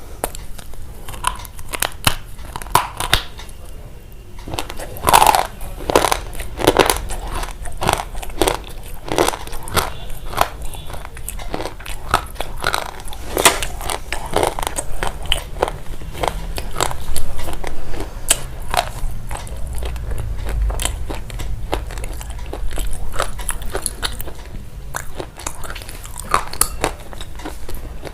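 Close-up crunching and chewing of something crisp, with many sharp, irregular crunches throughout.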